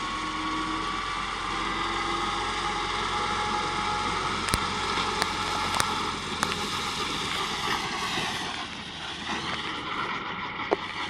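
UTB 445 tractor's turbocharged engine running steadily under mowing load, its pitch rising slowly over the first few seconds, then dipping and recovering about eight to nine seconds in. A few sharp clicks come through in the middle.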